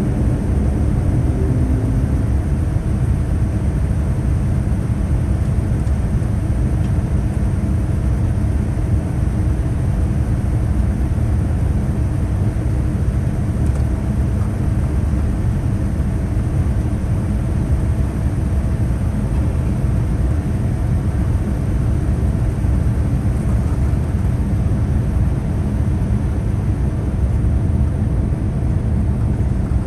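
Steady cabin noise of a Boeing 787-9 airliner in flight, heard from inside the cabin: an even, deep rumble of engines and airflow with a faint steady hum above it.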